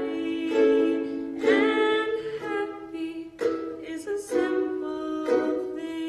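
Live music: a small plucked string instrument strummed in a steady rhythm, about one strum a second.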